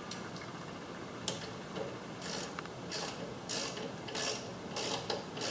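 A ratcheting hand screwdriver clicking through a run of short, evenly spaced strokes, about three every two seconds, starting about two seconds in, as a small screw is turned.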